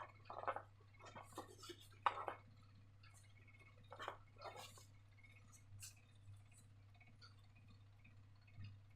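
Faint, scattered handling sounds of slime-making: short soft wet clicks and light taps, clustered in the first five seconds and sparser after. A faint steady low hum runs underneath.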